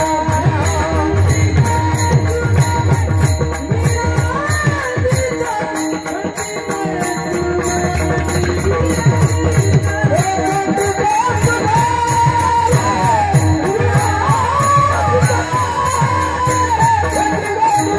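Devotional bhajan music: a drum beating a steady rhythm with small hand cymbals ringing on the beat, under a wavering melody line.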